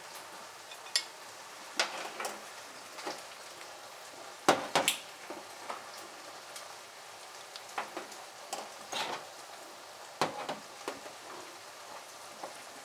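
A pan of onions, carrot and tomato paste sizzling steadily on the stove, with scattered sharp clicks and taps of a spoon and spice container as a tablespoon of chili powder is measured out.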